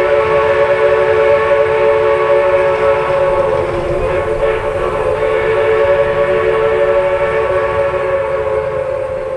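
A locomotive's chime sounding one long held chord of several tones over a low rumble, fading out near the end.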